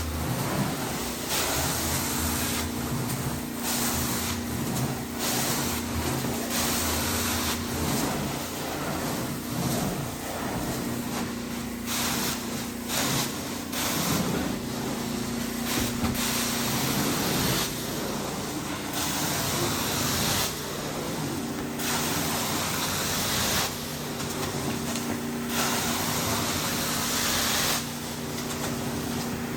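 Hot water carpet extractor wand passes: a hiss of spray and suction swelling and dropping every second or two over the machine's steady hum.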